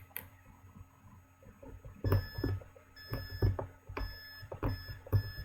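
A small electronic buzzer in a breadboard circuit sounding short, steady beeps: five of them, all at the same pitch, starting about two seconds in. The clicks and knocks of parts being handled and pushed into the board are heard throughout.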